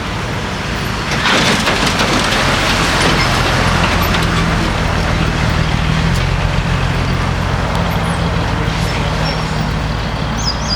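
Engine of a vintage lowrider truck idling steadily, with a surge of hissing noise from about one to four seconds in.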